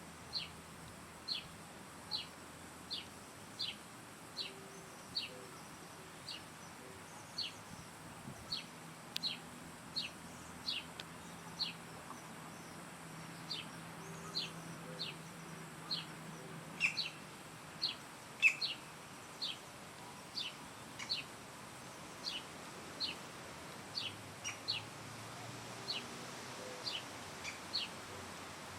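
A bird repeating a short, high call that slides downward, over and over at about one a second, with a few louder calls past the middle.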